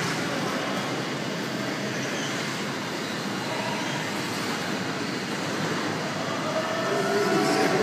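Electric 1/10-scale RC stadium trucks racing on an indoor clay track, giving a steady, even noise with no single sound standing out.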